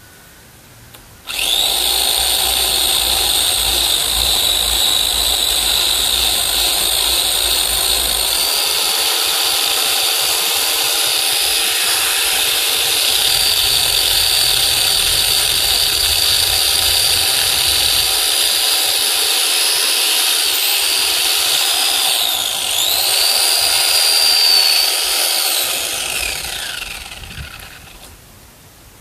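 Electric chainsaw cutting wood: the motor starts suddenly about a second in and runs with a steady whine, its pitch dips and rises again a few seconds before the end, then it winds down.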